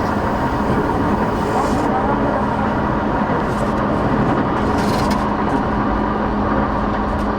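Interior running noise of a JR East E233 series 8000 electric train at speed: a steady rumble of wheels on rail with a steady underlying hum.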